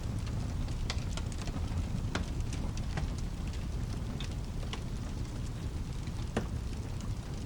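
Mixed rain and fireplace ambience: steady rain over a low, even rumble, with a wood fire crackling in scattered sharp pops, the sharpest about six seconds in.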